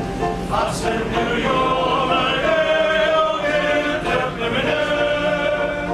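Male chorus singing a song in several-part harmony.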